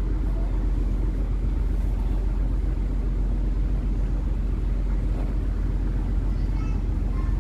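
Houseboat engine running with a steady low drone.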